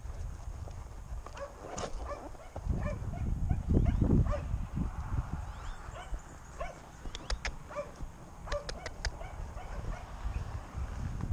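Wind buffeting the microphone with a heavy low rumble, while a dog barks several times in the background.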